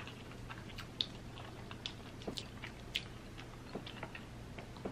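Close-up chewing of a mouthful of food, with soft, wet mouth clicks every half second or so, and one sharp click at the very end.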